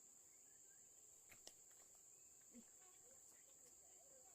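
Near silence with the faint, steady high-pitched drone of crickets, and a few faint clicks about a second and a half in.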